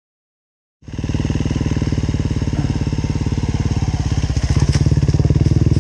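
Silence, then about a second in a motorcycle engine cuts in, running at low, steady revs with an even pulsing beat and getting a little louder near the end.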